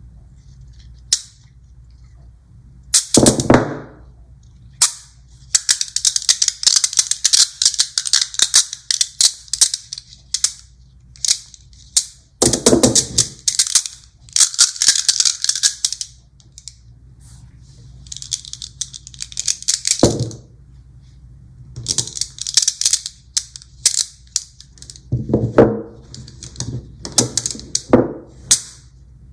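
Small magnet balls clicking and clattering against each other in quick runs of rapid ticks, with a few heavier snaps as clumps of balls pull together.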